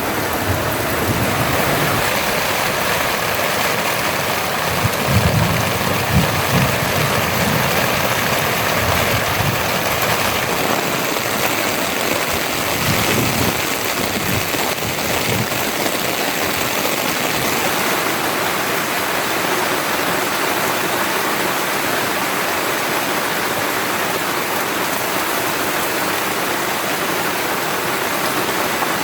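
Heavy rain pouring steadily, with a few low rumbles rising out of it around five to seven seconds in and again near fifteen seconds.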